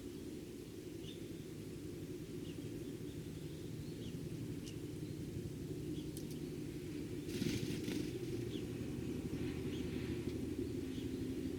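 Scattered short, faint chirps of Eurasian tree sparrows over a steady low background rumble, with a brief rustling burst about seven seconds in.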